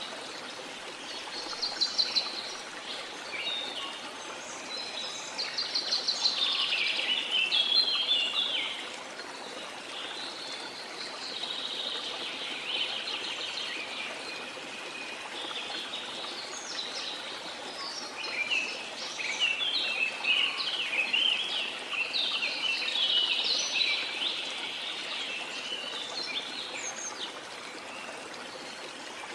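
Small songbirds chirping and singing in quick runs of high notes, busiest a few seconds in and again past the middle, over a steady wash of sea water.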